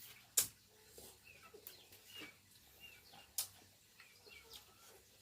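Birds chirping in short high calls, with a couple of sharp knocks, the loudest about half a second in and near three and a half seconds in.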